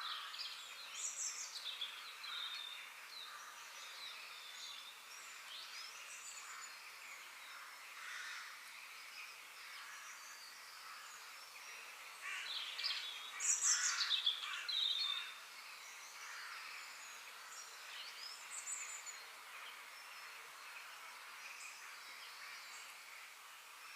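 Birds calling and chirping, many short calls of several kinds overlapping, with a louder flurry of calls about halfway through.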